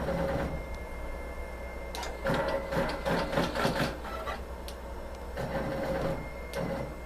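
Butterfly multi-needle embroidery machine running: a steady motor whine under fast runs of needle strokes, one from about two seconds in to four seconds and another near the end.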